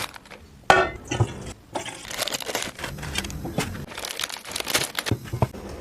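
Crinkling and clicking of food being handled and prepared, with a sharp knock about a second in.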